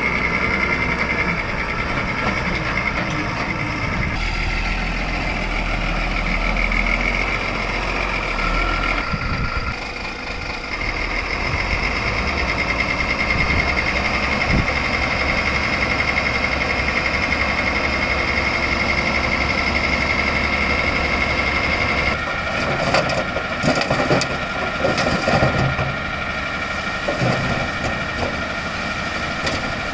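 Backhoe loader's diesel engine running steadily with a high steady whine. About two-thirds of the way through the whine stops and a run of irregular clattering knocks takes over.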